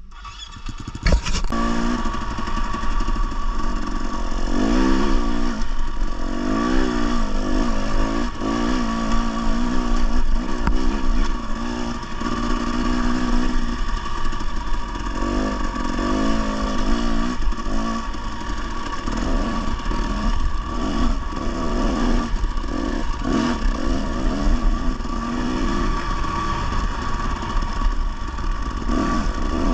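Dirt bike engine running under throttle on a rough trail, its pitch repeatedly rising and falling as the rider opens and closes the throttle, with clatter from the bike. The engine comes in suddenly about a second in.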